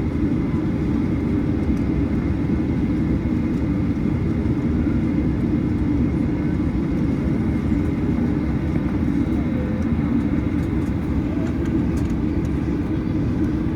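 Steady low cabin drone from the Boeing 737-900ER's CFM56-7B engines running at idle, heard from inside the cabin, with a faint steady whine above it.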